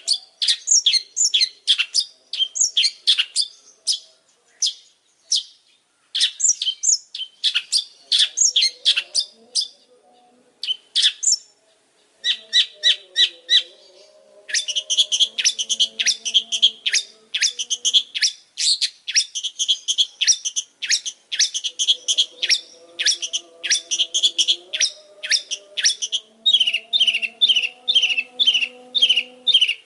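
Long-tailed shrike (pentet) singing energetically in rapid, chattering phrases of sharp high notes. There is a short lull about ten seconds in, and near the end a run of evenly spaced falling notes at about four a second.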